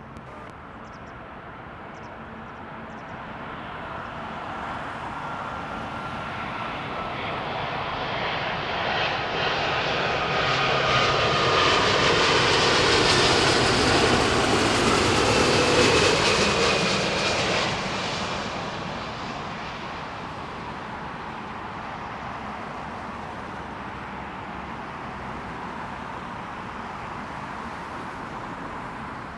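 Jet airliner passing close on its landing approach: the engine noise builds for about ten seconds to a loud peak just past the middle, with a whine that falls in pitch as it goes by, then drops back to a steadier, lower rumble that carries on.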